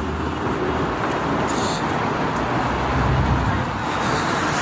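Steady traffic noise from passing vehicles, with a low rumble of wind on the microphone.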